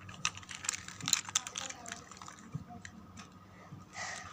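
Hard plastic parts of a toy car clicking and knocking irregularly as it is handled and worked open.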